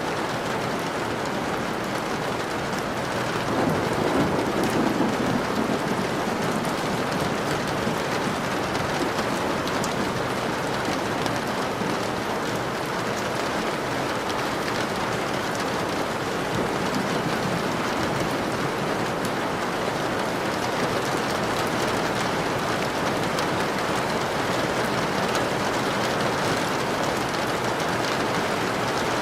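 Steady, dense rainfall, with a low rumble of thunder swelling about three to four seconds in and fading over a few seconds.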